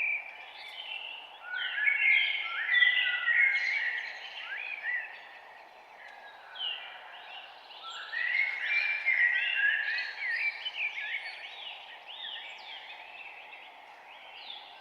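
Several songbirds singing in quick, overlapping phrases of rising and falling notes, in two busy bouts with a thinner stretch between. A steady low hiss of background noise runs beneath.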